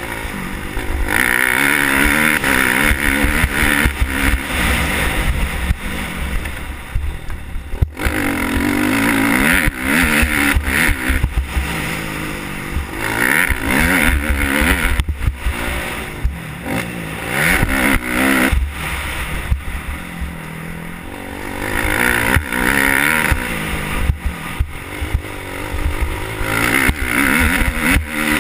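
Motocross motorcycle engine being ridden hard round a dirt track, revving up to loud high-rev bursts and dropping back about six times as the rider opens and closes the throttle.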